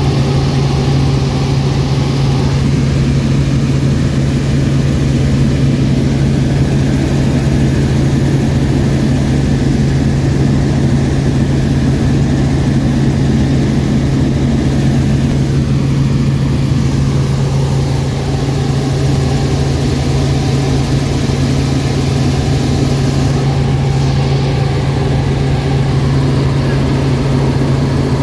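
Helicopter engine and rotors running steadily, heard from inside the cabin: a loud, constant drone with a strong low hum.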